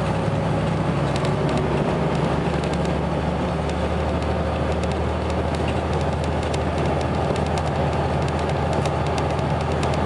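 Volvo B7RLE bus's six-cylinder diesel engine running steadily, with faint light clicks or rattles scattered through it.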